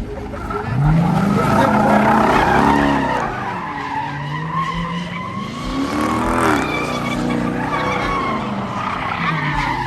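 A car's engine revving up and down while its tyres squeal in a sustained burnout or donut run, loudest in the first three seconds.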